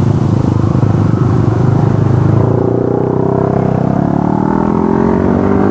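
Motorcycle engine running loud through an aftermarket exhaust; from about two and a half seconds in its pitch climbs steadily as the bike revs up and accelerates.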